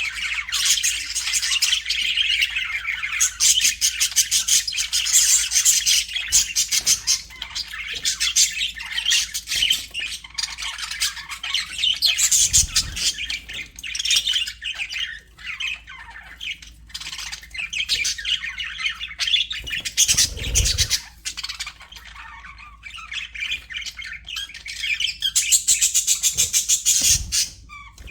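A flock of budgerigars chattering continuously, with rapid warbles, chirps and scratchy squawks overlapping. A few dull low thumps come through, the strongest about twenty seconds in.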